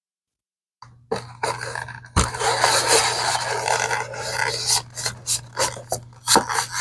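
Cleaning brush scrubbing a leather bag with soap. It starts about a second in as a steady run of scrubbing, then breaks into short separate strokes.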